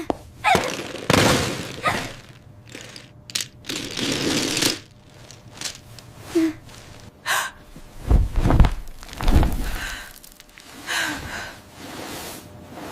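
A string of separate crisp cracks and crunches with short gaps between them, and a couple of deep thumps about eight and nine seconds in: AI-generated food ASMR sounds.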